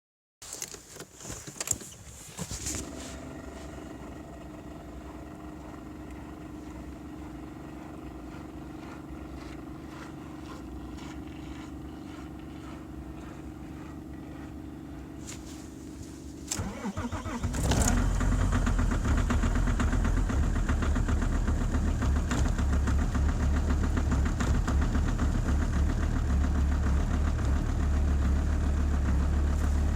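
Alfa Romeo 156 2.4 JTD inline-five diesel cold-starting at −22 °C. A few clicks and a steady hum come first. About 16 seconds in the starter cranks for roughly a second, the engine catches, and it settles into a loud steady idle.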